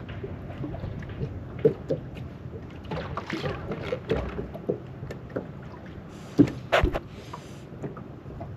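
Wind-driven water lapping and slapping against a lightweight boat's hull, with small scattered clicks and two sharp knocks about six and a half seconds in.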